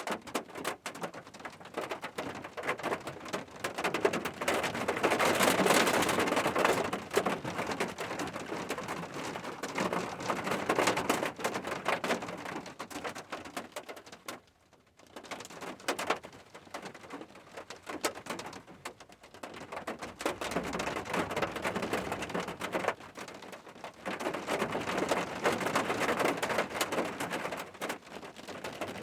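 Rain falling on a surface, a dense patter that swells and eases in waves, with a brief lull about halfway through.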